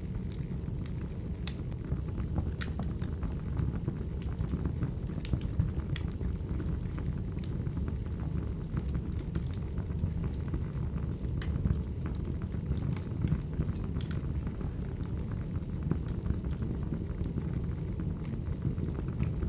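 Wood fire burning, with a steady low rumble of flames and sharp, irregular crackles and pops from the logs.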